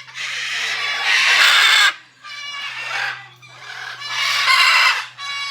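Parrots squawking and screeching. There is a loud, harsh screech near the start, shorter, more tuneful calls in the middle, and another harsh screech about four seconds in.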